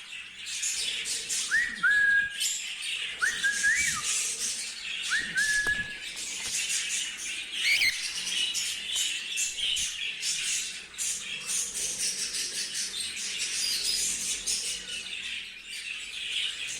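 Pet cockatiel whistling three short notes, each sliding up and then held, in the first six seconds, followed by steady busy chirping and chattering of cage birds.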